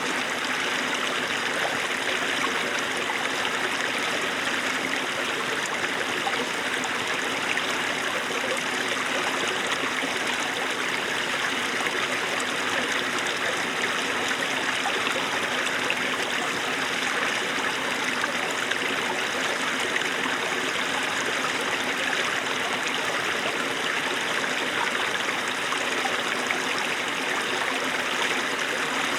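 Small mountain stream of snowmelt water babbling and trickling steadily over rocks.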